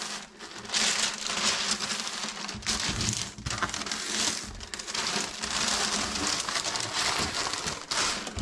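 Irregular crinkling and rustling noise, like paper or plastic being handled or worked, with brief pauses and a few soft low knocks.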